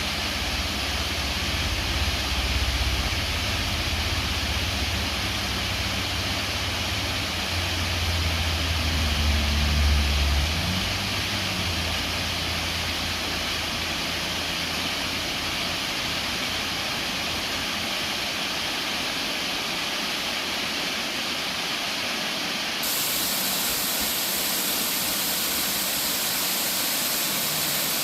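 Waterfall rushing in a steady, dense hiss, with a low rumble underneath for the first ten seconds or so. About three-quarters of the way through, the rush turns suddenly brighter and a little louder.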